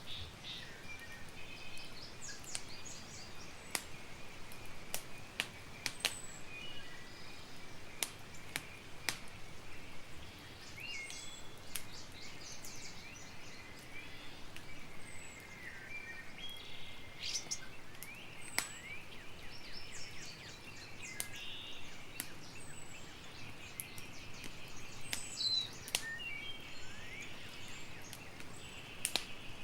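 Campfire crackling, with sharp irregular pops every second or so over a steady low hiss, while small birds chirp and twitter.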